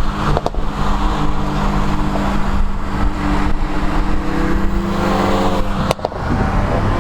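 Hyundai Elantra N's engine running under steady load with road noise while driving. Its note climbs slowly, then breaks off briefly about six seconds in.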